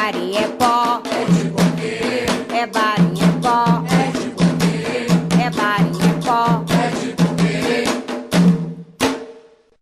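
Candomblé ritual music: drumming with a sung chant, which fades out near the end, followed by a single click and a moment of near silence.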